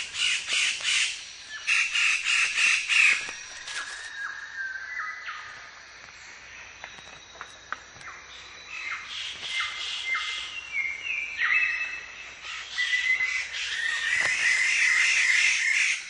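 Birds of paradise calling: two bursts of loud, rapidly repeated harsh notes, then scattered whistled notes, building to a dense chorus of calls near the end.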